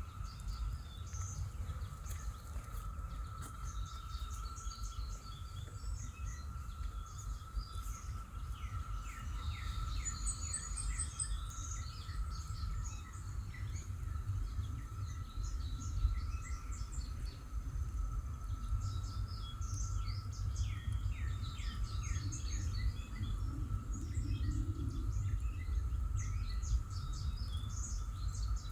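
Outdoor ambience: songbirds chirping and singing in short scattered phrases over a steady low rumble, with a faint steady high drone.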